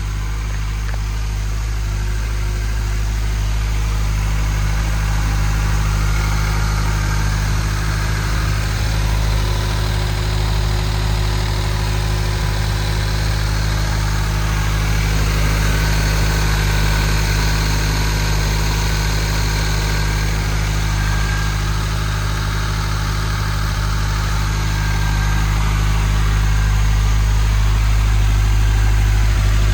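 2022 Subaru WRX's turbocharged 2.4-litre flat-four boxer engine idling steadily with the hood open.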